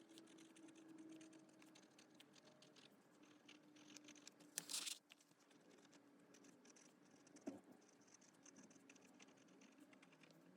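Esterbrook Estie fountain pen nib writing on paper: faint, light scratching strokes. A short, louder rustle comes about halfway through, and a single light knock about three-quarters of the way in.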